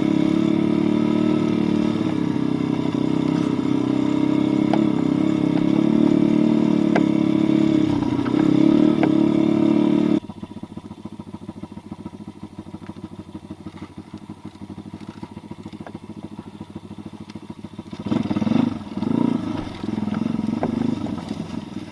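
Pit bike engine running steadily and loud, then dropping suddenly to a much quieter fast ticking about ten seconds in. Near the end it comes up again in uneven surges of revving.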